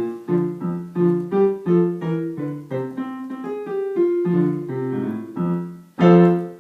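Piano playing a jazz swing piece, a steady run of short chords and melody notes, ending on a loud final chord about six seconds in.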